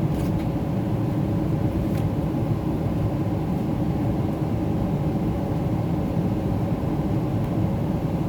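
Steady in-flight cabin noise of a Boeing 777-300ER heard from a seat in the front cabin: a constant low rumble of engines and airflow with a faint steady hum.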